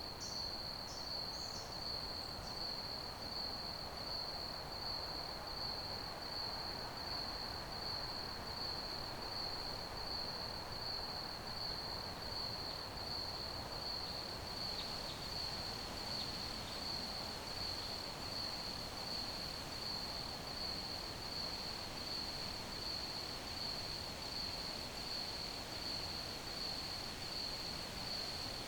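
Crickets chirping in a continuous, even, high-pitched trill over a soft background hiss, with a few brief higher chirps in the first couple of seconds.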